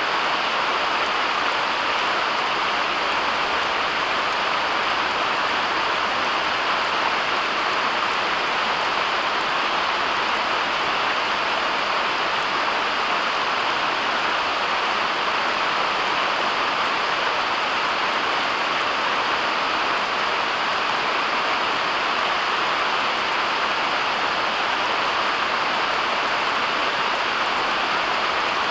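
Steady, unchanging rushing noise like heavy rain, with no separate drops or other events standing out.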